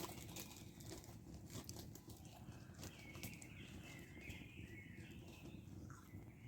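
Campfire crackling faintly, with scattered small pops and clicks over a low, steady rumble.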